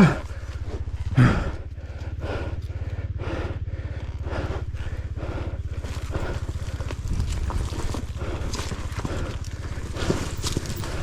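Dirt bike engine running at low revs with a rhythmic run of knocks and clatters, about two a second, and two loud thumps near the start and about a second in.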